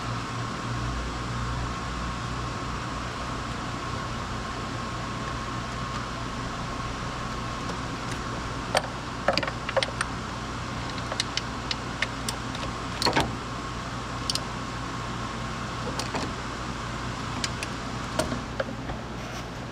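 Steady mechanical hum with a faint high tone, and in the second half a scattering of short sharp clicks and taps.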